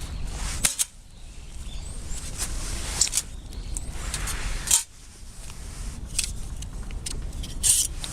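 A series of short clicks and scrapes, loudest about three seconds in, near five seconds and near the end, over a steady low rumble.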